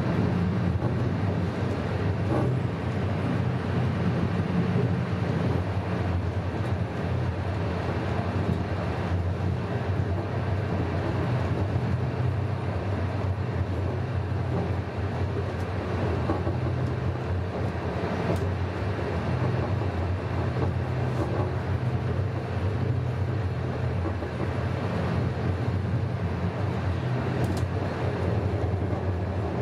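Passenger train running, heard from on board: a steady rumble of wheels on the rails with a low, even drone and a few faint clicks.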